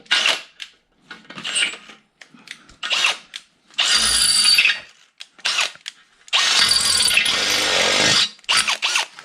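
Electric drill boring out bolt holes in a transmission bell housing to half an inch. It runs in several short bursts, the longest lasting about two seconds near the end.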